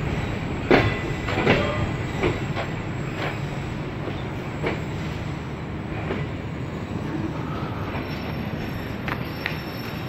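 Passenger train coach rolling slowly along a station platform. Its wheels clack over the rail joints, and the clacks come further apart as the train slows. A steady rumble runs under them, and a faint squeal comes in near the end.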